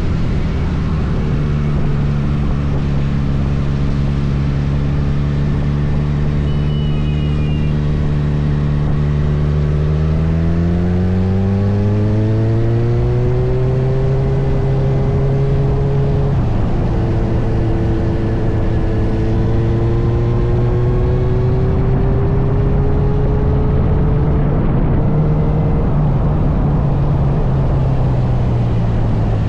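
Kawasaki Z900's inline-four engine running under way: it holds steady revs, then pulls up in pitch. About 16 seconds in, a gear change drops the pitch sharply, and the engine builds again slowly before easing off near the end.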